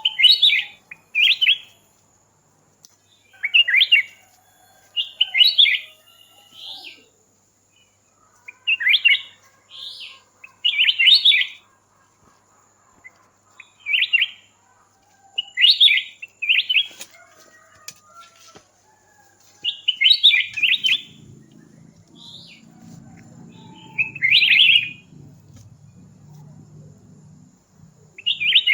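A songbird calling over and over in short, loud, chirpy phrases, often in pairs, every second or two. A faint steady high tone runs underneath, and a low hum joins about two-thirds of the way through.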